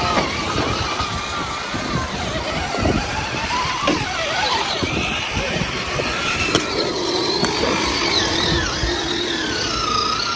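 A motor whining, its pitch wandering up and down, over a steady low rumble.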